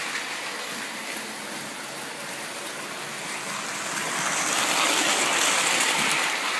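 Lionel Flying Yankee O-gauge toy train running on a FasTrack loop: a steady whirring rush of motor and wheels on the rails. It fades down about a second in and swells again around four to six seconds as the train comes back around.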